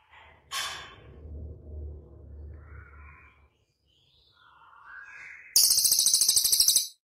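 Songbird calls: a sharp high call about half a second in, softer scattered chirps, then a loud, very rapid high-pitched trill lasting about a second and a half that stops abruptly near the end.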